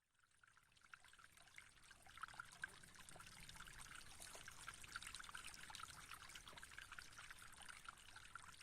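Faint trickling water fading in, a steady fluttering splash like a small stream or fountain.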